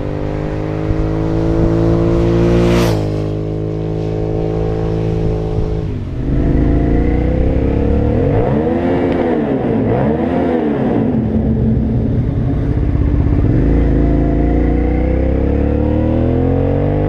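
Suzuki SV650's V-twin engine with an aftermarket Laser exhaust running under way, with wind on the microphone. The pitch drops sharply about three seconds in, then rises and falls a few times in the middle as the throttle is worked.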